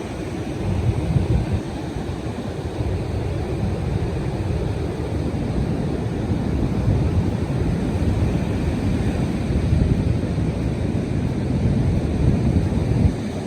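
Wind buffeting the microphone over the steady wash of ocean surf, a continuous low rumble with no distinct events.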